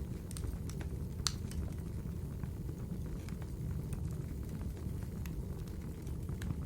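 Wood fire burning in a fireplace: a steady low rumble with scattered sharp crackles and pops, the loudest about a second in.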